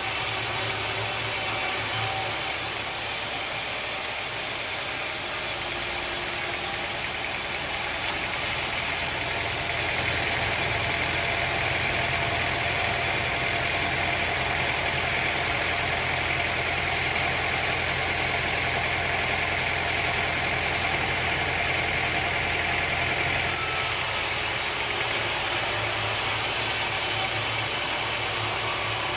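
Sawmill machinery running steadily with an engine-like hum, joined by a higher-pitched whine for about fifteen seconds in the middle.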